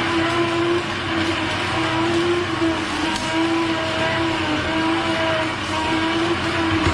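Electric juicer motor running with a steady hum that wavers slightly in pitch, over a whirring rush of noise.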